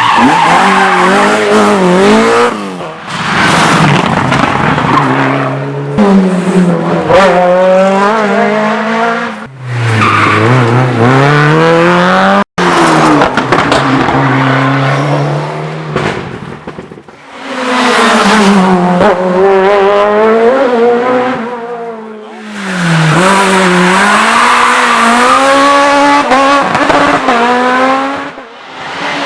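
Rally car engines driven hard, revving up and dropping back through gear changes. Several cars pass in turn, with abrupt breaks between them.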